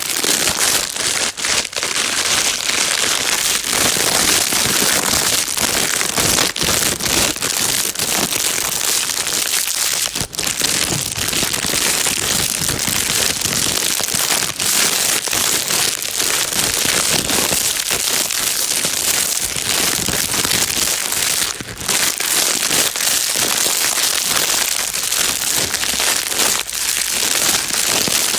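A plastic bag crinkling continuously, a dense steady crackle of many small rustles.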